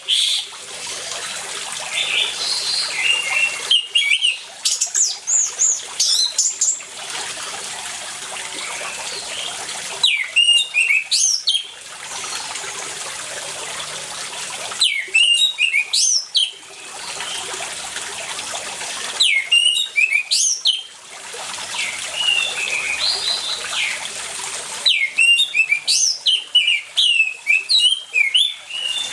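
Orange-headed thrush (anis merah) singing in bursts of quick, varied high notes about every five seconds, over a steady rush of running water. A few softer slurred notes fall in some of the gaps.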